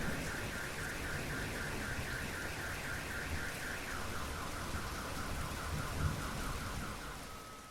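Steady rain falling, with a car alarm warbling through it in rapid pulses, about five a second; about four seconds in the alarm steps down to a lower tone, and it fades near the end.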